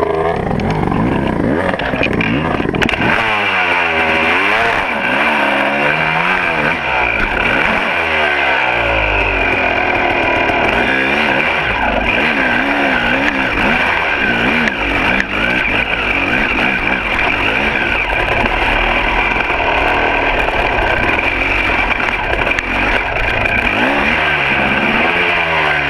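Two-stroke dirt bike engine revving up and down on a trail ride, its pitch repeatedly rising and falling, steadier through the middle, over constant wind and riding noise.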